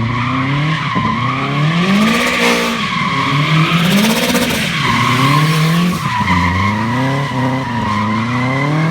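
Big-turbo, rear-wheel-drive-swapped Subaru drifting: the engine revs rise and fall over and over while the rear tyres squeal steadily.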